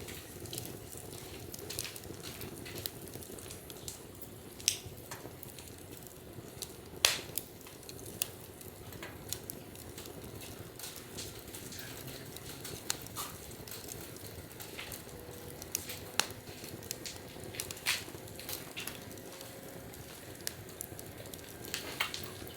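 Wood fire burning with a steady low hiss of flames and irregular sharp crackles and pops from the burning wood; the loudest pop comes about seven seconds in.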